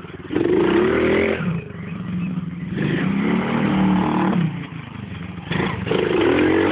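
Stomp Juicebox 110cc pit bike's four-stroke single-cylinder engine revving in three bursts, each rising and then falling in pitch, with the engine running lower between them.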